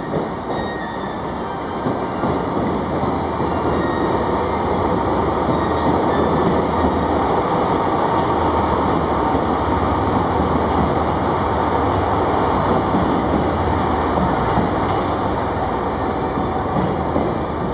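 Local electric multiple-unit train rolling slowly into a station platform, its motors and wheels on the rails rumbling steadily. The noise grows louder over the first several seconds as the train comes closer, then holds.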